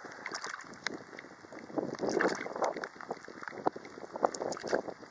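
Rain and wind on the microphone: irregular taps of raindrops over a steady rushing hiss, with some louder rustling swells in the middle.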